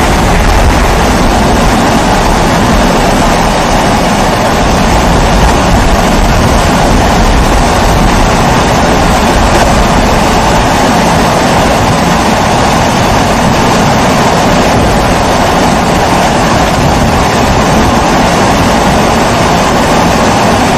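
Kerosene pressure stove (Primus-type babour burner) burning with a loud, steady rushing noise.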